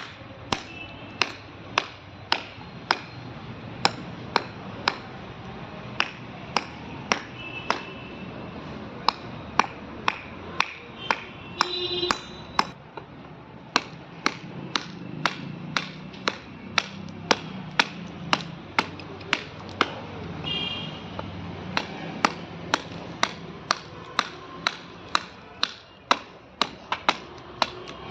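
A steady series of sharp taps, about two a second, from wood being struck while the bird is carved.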